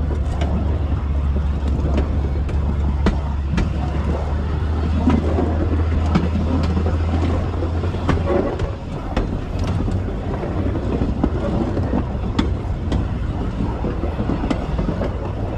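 2000 class diesel railmotor running along the line, heard on board: a steady low engine drone, with the wheels clicking irregularly over the rail joints. The low engine note drops away about halfway through while the railcar keeps rolling.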